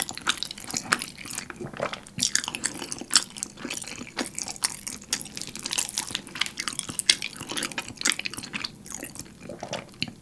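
Close-miked chewing of a mouthful of thick, creamy shrimp carbonara: a dense stream of wet smacks and clicks from the mouth.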